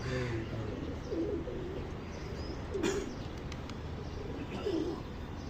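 Pigeons cooing: low, warbling coos about every one to two seconds, with a short sharp tap near the middle.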